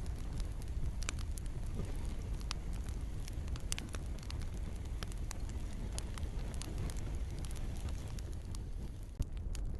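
Campfire crackling: frequent small sharp snaps over a steady low rumble, with one louder pop near the end. A soft rain hiss runs underneath.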